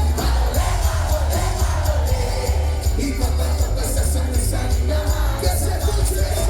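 A live band playing loud amplified music with heavy bass, steady percussion and a melodic vocal line, with crowd noise beneath.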